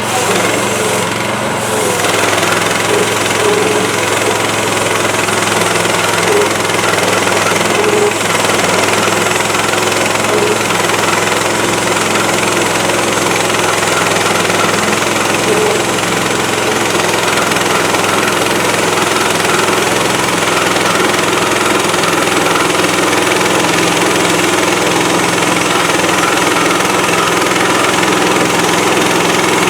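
The gas engine of a Woodland Mills HM130MAX portable band sawmill running steadily at speed, a little louder after about two seconds.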